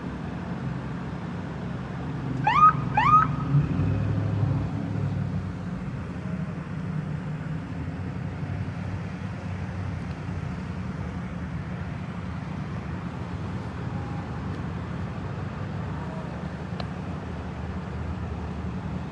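Two quick rising whoops from an emergency vehicle's siren, about three seconds in, over the steady low rumble of idling vehicle engines.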